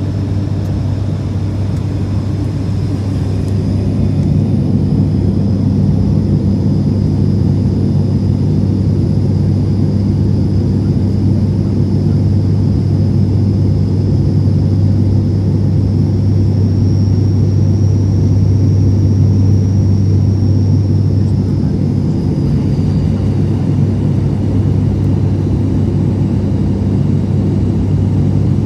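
ATR 72 turboprop's propellers and engines droning steadily in the cabin, a deep hum under a constant rush. A faint high whine rises slightly over the drone and fades out a little past the middle.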